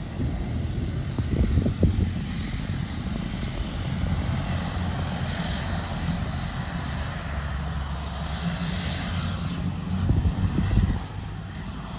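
Airliner engine noise at an airport: a steady low drone with a rough rushing sound above it. It swells briefly about two seconds in and again near the end.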